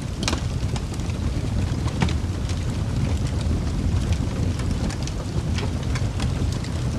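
Wood fire burning in a fireplace: a steady low rumble of the flames with scattered sharp crackles and pops, a louder pop just after the start and another about two seconds in.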